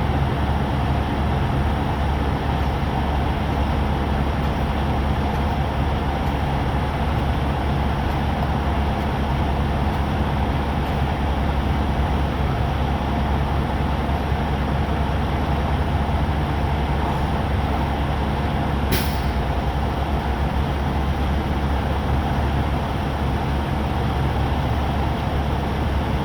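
Diesel truck engine idling steadily with a low, even hum, and one short sharp sound about 19 seconds in.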